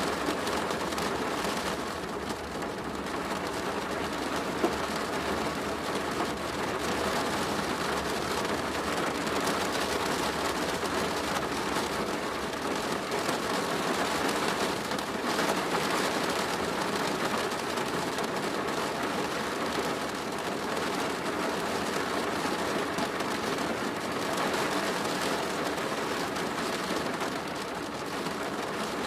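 Steady rain drumming on a plastic roof, a dense patter of drops. A single sharper drop or tick stands out about five seconds in.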